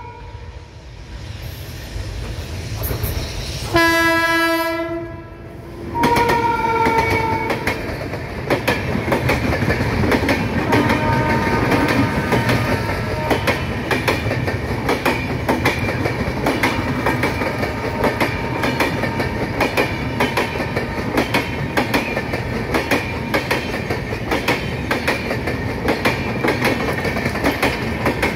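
Indian Railways express train approaching at speed, its locomotive sounding two horn blasts about four and six seconds in, the second higher-pitched. Then the long rake of coaches passes close by with a steady rumble and rapid clickety-clack of wheels over rail joints.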